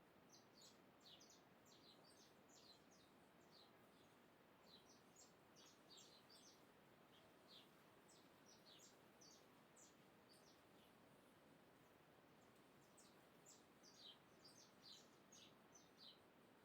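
Faint birds chirping: many short, high chirps in scattered runs, over a steady low hiss.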